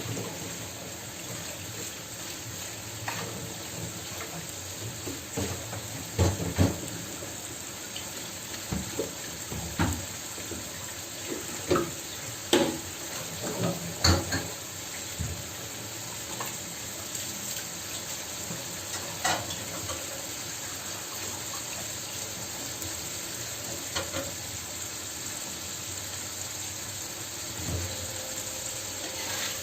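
Kitchen cooking sounds: a steady hiss with scattered knocks and clicks of utensils against cookware, busiest in the first half.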